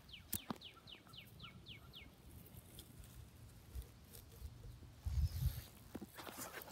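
A bird sings a run of quick, down-slurred whistled notes, about four a second, that stops about two seconds in. About five seconds in a brief low rumble hits the microphone, followed by rustling.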